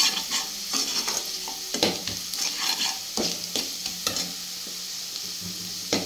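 Onions and ground spices frying in mustard oil in a non-stick kadai, sizzling steadily, while a steel ladle stirs them with irregular scrapes against the pan.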